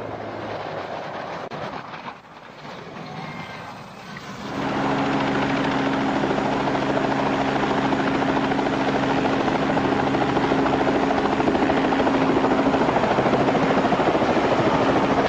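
Helicopter running: a steady rotor and engine drone with several held low tones. About four seconds in, the sound jumps abruptly louder, as if a closer recording takes over.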